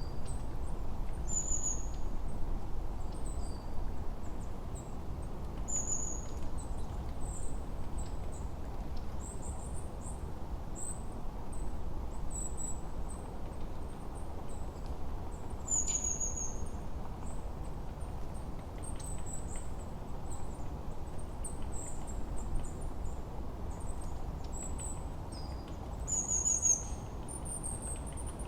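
Forest birdsong: short, high chirps and falling whistles from several birds, scattered every second or two, over a steady low rush of wind.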